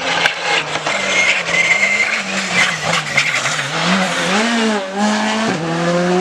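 Rally car engine at full racing pace, revving up and down through a corner, with sharp cracks throughout. Its pitch dips and rises a little past the middle, then steps up and holds high near the end.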